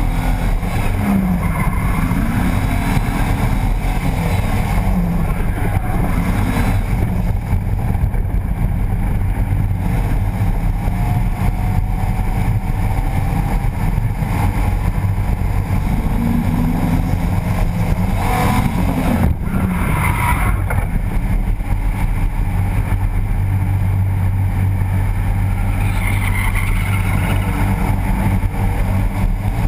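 BMW E30 drift car's engine, heard up close in its open engine bay, revving up and down repeatedly without a break.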